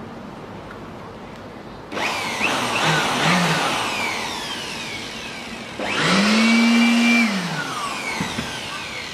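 Small electric handheld blower-vacuum switched on twice. About two seconds in it starts with a sudden rush of air and winds down. Near the middle it spins up with a rising whine, runs steadily for about a second, then is switched off and spins down.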